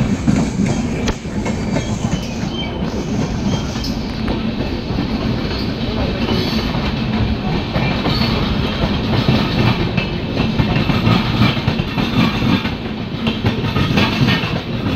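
Indian Railways passenger coaches rolling past close by on the next track: a steady, loud rumble with the wheels clattering over the rail joints.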